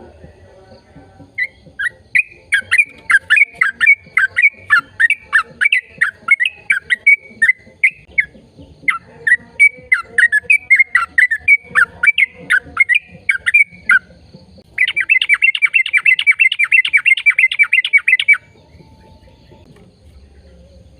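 A bird calling: a long run of quick, loud chirps, then a fast trill lasting a few seconds that stops abruptly.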